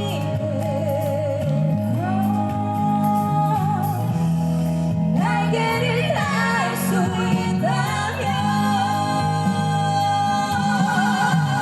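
Live band music with a lead singer holding long notes with vibrato over a steady accompaniment.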